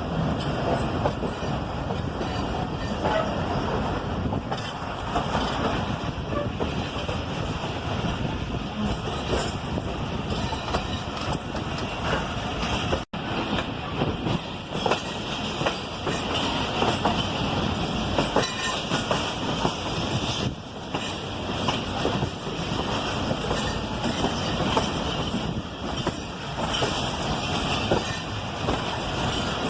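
Passenger train running along the track: a steady rumble with the wheels clattering over the rails. The sound drops out for a moment about halfway through.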